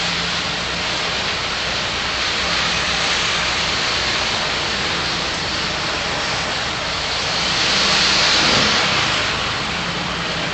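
Steady traffic and road noise from a drive through city streets, swelling briefly about eight seconds in.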